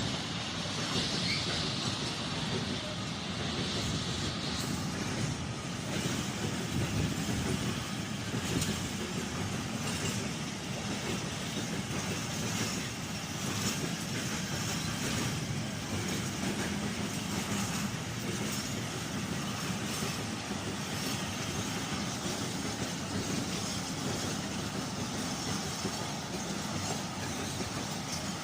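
Train passing at close range: a steady running noise of wheels on the rails, with scattered faint clicks.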